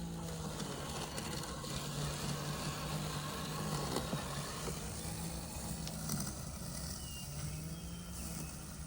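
UBHOME M10 robotic lawn mower running, its electric motor giving a steady low hum that shifts a little in pitch and fades near the end.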